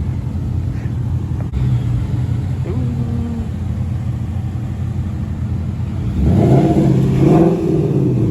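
Car engine running at idle, revved up once about six seconds in, its pitch rising for a second or so before dropping back to idle.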